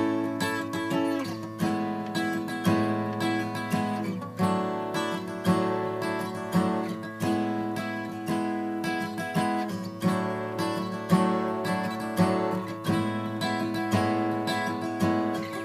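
Acoustic guitar playing a chord progression, one fretted shape moved up the neck over ringing open strings. Chords are struck in a steady rhythm, each left to ring into the next.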